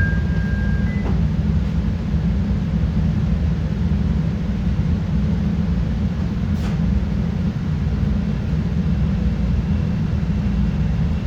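CTA Red Line rapid-transit train running through the subway, heard inside the car: a steady heavy low rumble of wheels on rail. A two-tone door-closing chime ends about a second in.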